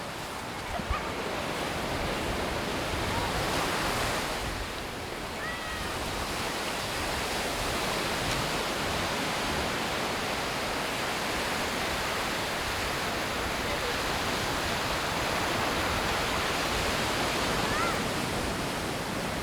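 Sea surf washing onto the beach: a steady rush of breaking waves, swelling a little about three to four seconds in.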